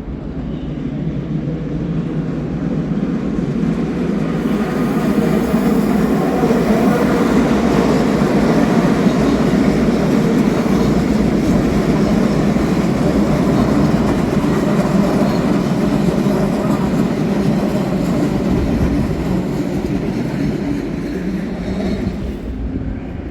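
Train running along the station track: a loud rumble of wheels on rails that builds over the first few seconds, holds, and eases off near the end.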